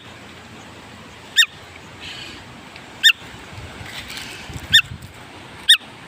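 A bird repeating a short, sharp, high call, five times at uneven intervals of one to two seconds, each note curving down in pitch.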